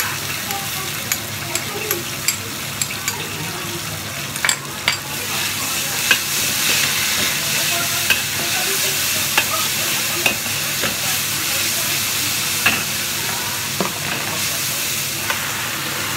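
Minced garlic and salted beancurd sizzling in hot oil in a wok, with a metal spatula scraping and clicking against the pan as it is stirred. The sizzle grows louder about five seconds in.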